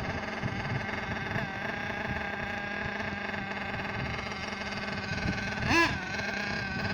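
A small nitro engine in an Ansmann Virus 2.1 RC car idling with a steady high buzz. About six seconds in it gives one quick throttle blip that rises and falls.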